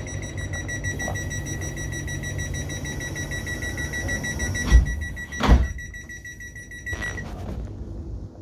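Electric train at the platform: a steady high-pitched whine over a low rumble, the whine cutting off suddenly about seven seconds in. Two loud thumps come close together around the middle.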